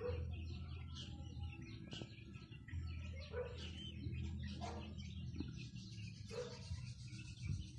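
Small birds chirping in quick, repeated short high notes over a low steady rumble.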